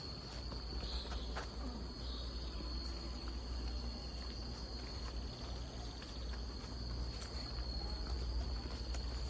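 An insect trilling: one steady, unbroken high-pitched note, with a low rumble underneath.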